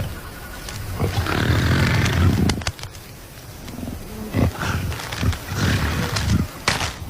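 Leopard growling as it claws and tears at a wooden door, with a loud stretch of growl about a second in followed by a series of knocks and scrapes.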